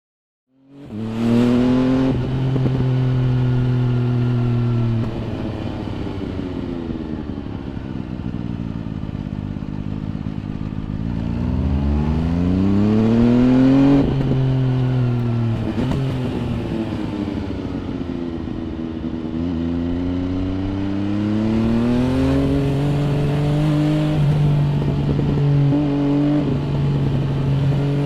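MV Agusta Brutale 800 RR's three-cylinder engine through an MV Agusta Corse trio exhaust, heard onboard while riding. It fades in about a second in, then the revs rise and fall repeatedly with throttle and gear changes, with two long climbs in pitch in the middle and near the end.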